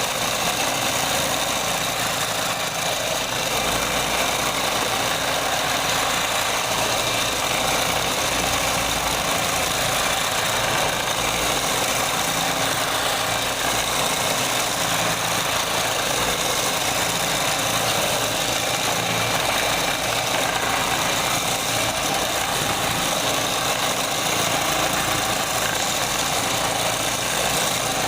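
Electric power-tool motor running at a steady speed, with an even whine and hum that does not change in pitch or loudness.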